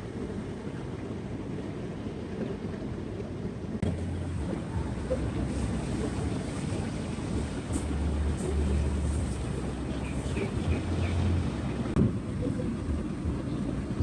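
Seaside wind buffeting the microphone over the steady noise of surf, with a low rumble and a few faint clicks.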